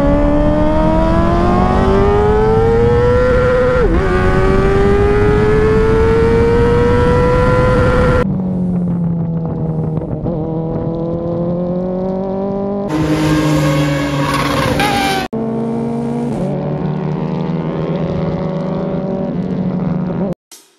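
Kawasaki ZX-4RR's inline-four engine revving high at full throttle, its pitch climbing steadily and dropping sharply at an upshift about four seconds in. The sound is spliced from several short clips of the engine pulling at different revs, with abrupt changes around eight, thirteen and fifteen seconds in, and it cuts off just before the end.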